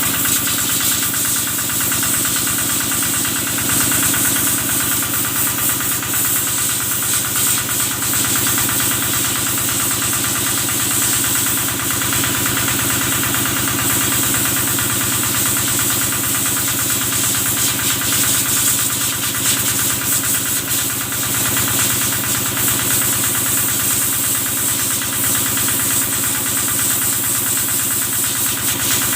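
Kubota engine running steadily at a constant speed, with a fast, even knocking beat and a steady hiss over it.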